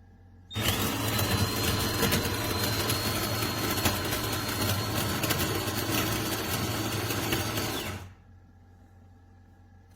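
De'Longhi Rivelia automatic espresso machine running a cycle: a loud, noisy mechanical whir with a steady high whine over it starts about half a second in and cuts off about eight seconds in.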